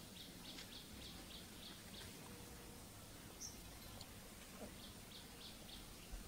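Faint forest background with a small bird chirping: runs of short high chirps, about three a second, in the first two seconds and again near the end, with one higher note in between.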